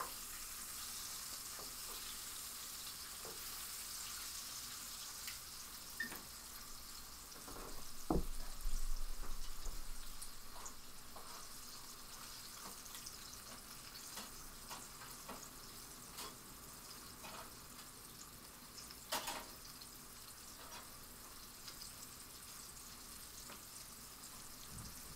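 Chicken frying in canola oil in a pan on the stove: a steady high sizzle with light clicks and clinks. About eight seconds in there is a thump and the sizzle gets louder for a couple of seconds, and a sharp clatter comes near the middle.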